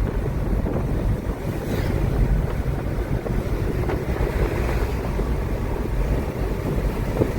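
Wind buffeting the microphone over the low rumble of a moving car, steady throughout.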